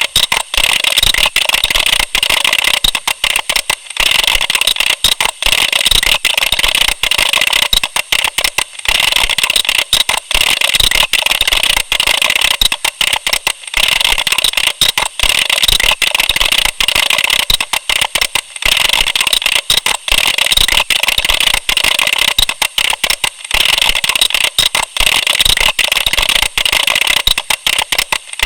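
Computer keyboard keys being typed on rapidly and continuously, a dense run of sharp clicks broken by brief pauses every four to five seconds.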